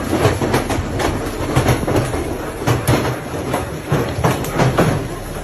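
Large hailstones pelting down, a dense, irregular clatter of hard impacts over a steady rush.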